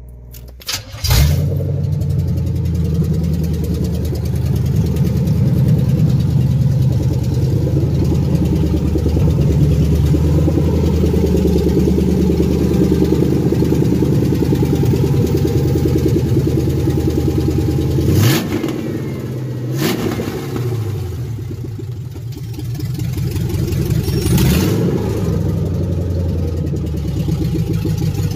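1976 Chevrolet Malibu's rebuilt 350 V8 with a new Edelbrock carburetor catching about a second in on its first start-up with that carburetor, then running loud through open headers with no mufflers. Its pitch rises and falls a few times in the second half as it is revved.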